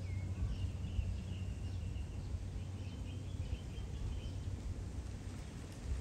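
Steady low background rumble, with a small bird twittering faintly in quick runs of high notes for the first few seconds.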